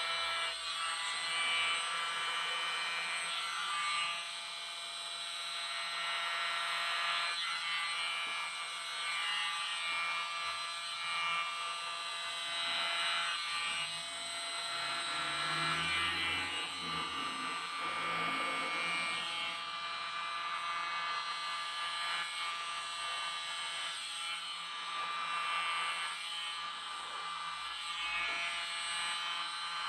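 Mini electric blower running steadily with a high motor whine, swept right and left to push wet acrylic paint across a canvas.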